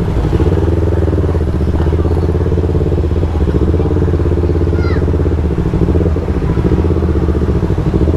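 Yamaha R3 sport bike's parallel-twin engine running steadily under way, easing off briefly about two-thirds of the way through before pulling again.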